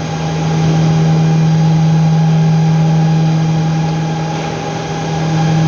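Steady machine hum: a strong, unchanging low drone with fainter steady higher tones above it, dipping slightly in level near the end.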